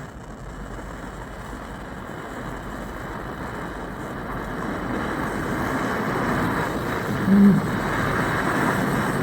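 Jewellery gas torch flame hissing steadily as it heats a silver ring's soldered joint to melt the solder, growing gradually louder. A brief low tone sounds about seven seconds in.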